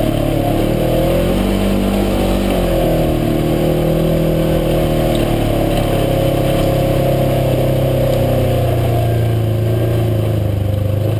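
UTV engine running under way, its revs dipping and climbing back twice in the first few seconds, then holding steady.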